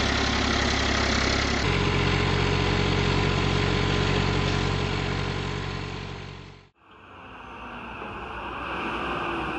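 Heavy diesel machine engine running steadily, its tone shifting suddenly about a second and a half in. It fades out around seven seconds in, and a quieter engine with outdoor noise follows.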